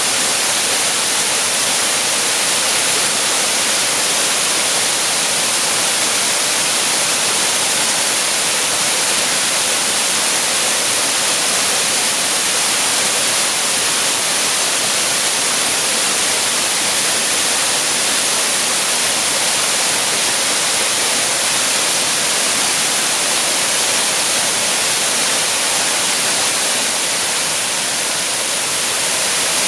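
Waterfall pouring steadily: an unbroken, even rush of falling water, loud and hissy in the upper range.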